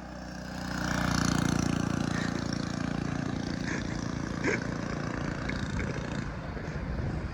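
Mini bike's small engine running at speed, growing louder over the first second as it approaches, then holding steady.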